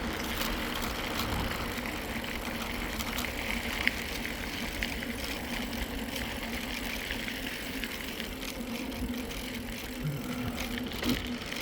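Mountain bike riding along a trail: steady rolling tyre noise and wind on the phone's microphone, with a low steady hum.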